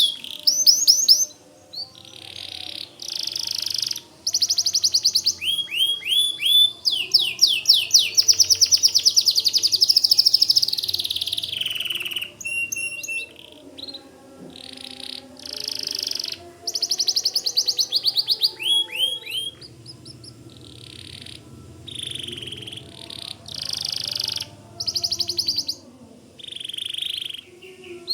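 White domestic canary singing: fast trills and rolling runs of rapidly repeated notes, some of them falling sweeps, in phrases broken by short pauses. The song is strongest in the first half and comes in shorter, softer phrases later on.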